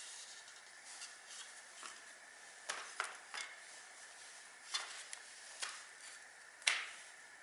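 Irregular light metallic clicks and knocks of hand tools and small engine parts being handled, the loudest near the end, over a faint steady hiss.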